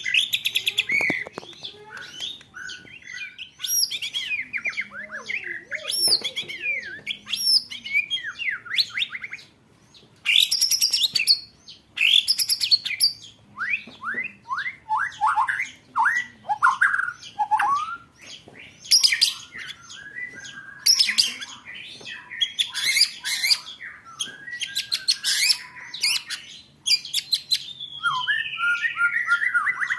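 A songbird singing a fast, varied song: quick swooping whistled notes alternating with dense rapid-fire trills and rattling bursts, each burst lasting a second or two.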